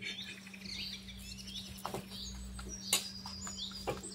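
Small birds chirping in quick, high calls, with a few sharp clicks of a metal spatula against an iron tawa while a besan chilla is rolled, the loudest about three seconds in, over a steady low hum.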